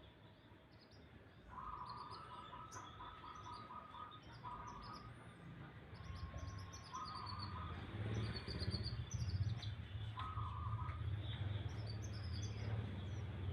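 Canary singing: short, rapid trilled phrases repeated four times, over many quick high chirps. A low steady hum builds up about halfway through.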